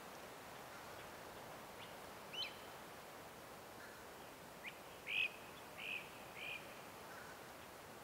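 A bird calling in short, arching whistled notes: one about two and a half seconds in, then a quick chip and three more notes from about five seconds in, the first of these the loudest. Beneath them is a steady faint outdoor hiss.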